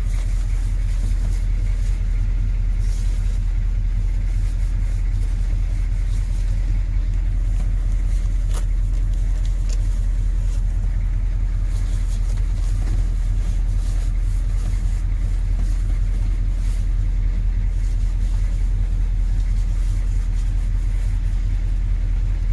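M1028 CUCV's 6.2-litre diesel V8 running steadily with a constant low rumble, with a few faint clicks.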